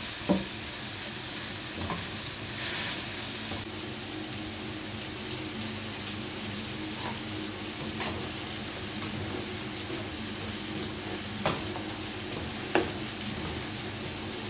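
Steady sizzle of food frying in hot oil as it is stirred: first a tomato and pepper sauce, then, from about three and a half seconds in, potato fries in oil turned with a slotted metal turner. The turner clicks against the pan a couple of times near the end.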